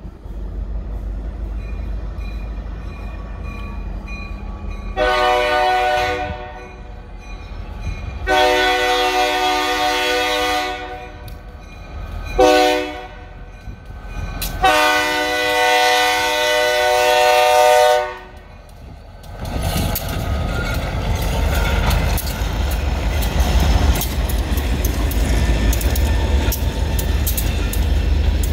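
EMD SD40 diesel locomotive's horn sounding the grade-crossing signal as it approaches: two long blasts, one short, then a final long one. After the horn, the locomotive's engine rumbles past and the loaded hopper cars follow, their wheels clicking rapidly over the crossing.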